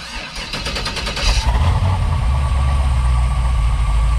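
LS V8 engine cranked on its starter and catching after about a second and a half, then settling into a steady low idle. This is its first start through new Thrush Turbo mufflers, and it runs quiet.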